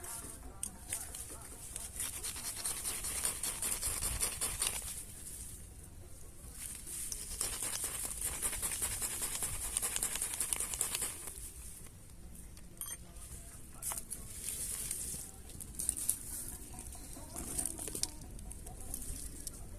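Campfire embers crackling and hissing, with dense crackle that swells and eases every few seconds.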